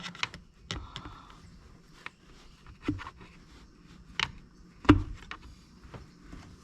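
Scattered light clicks and knocks of hands and small parts working on a Stihl MS390 chainsaw, pressing a part into place, with the loudest knock about five seconds in.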